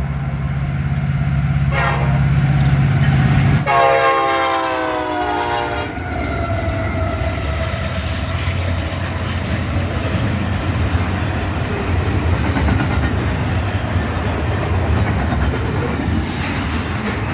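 Diesel freight locomotive running past with a steady low engine drone, then sounding its multi-chime air horn for about two seconds, the pitch sagging slightly as it passes and fading out. The train's cars follow with a steady rolling rumble of wheels on rail.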